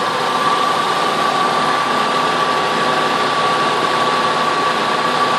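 Old Nissan car's engine idling under full electrical load, with the AC, defroster blower and wipers all running: a steady hiss with a thin constant whine.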